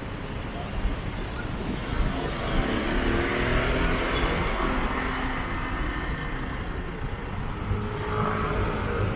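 Street traffic: motor vehicle engines passing close by, one engine note rising and falling from about two seconds in and another vehicle approaching near the end, over a steady traffic hum.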